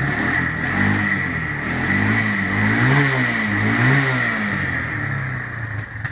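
Single-cylinder engine of a 2002 Yamaha Bear Tracker 250 ATV running unevenly with the choke fully open, its revs rising and falling in several surges, then sagging and dying near the end. The owner takes the stumbling and stall as the engine not yet warmed up enough to run without choke.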